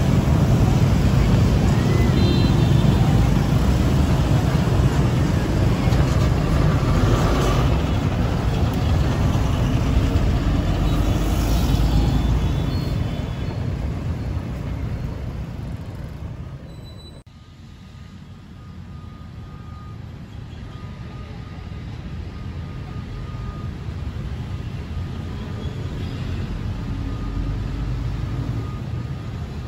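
Diesel-hauled passenger train running past on the track, a loud low rumble that fades away after about 12 seconds. After an abrupt cut, a quieter steady background rumble with a faint thin tone slowly builds.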